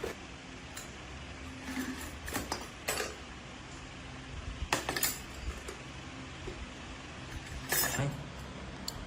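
Metal tools and parts knocking and clinking against each other, about seven sharp strikes at irregular intervals, the loudest near the end, over a steady low hum.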